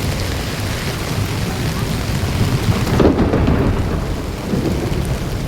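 Heavy rain falling steadily, under a low rumble that swells about three seconds in.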